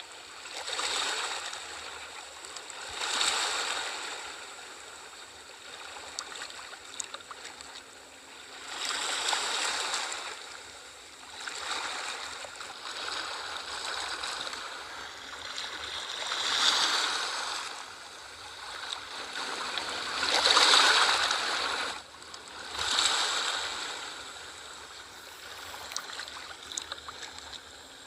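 Ocean waves washing onto a shore, surging in uneven swells every few seconds. Each swell is a light hiss of spray with little low rumble.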